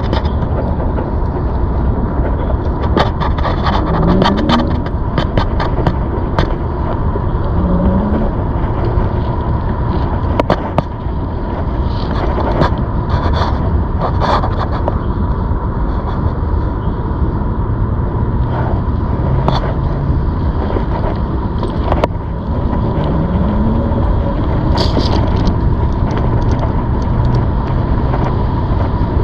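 Steady rumble of a ZOOZ electric bike being ridden, with noise and a faint steady whine throughout. A few short rising whirs and scattered clicks and rattles come through.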